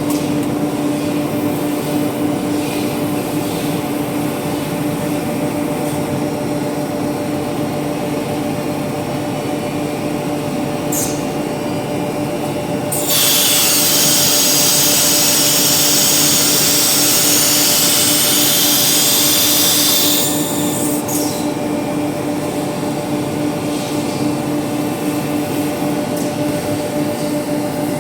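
CNC router spindle running with a steady whine as it machines a wooden door. For about seven seconds in the middle, a much louder hissing, rasping noise comes in as the bit cuts the wood, then drops back.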